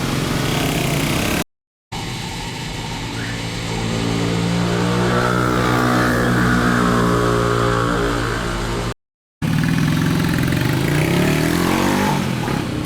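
A motor engine running, its pitch rising and falling a little in the middle, broken by two brief cuts to silence.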